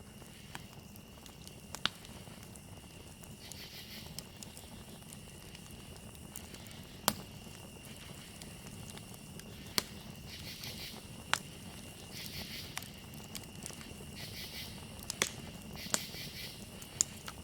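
Campfire crackling, with sharp wood pops every second or few over a low steady rustle of the burning fire. Crickets keep up a steady high trill, with louder bursts of chirping coming and going.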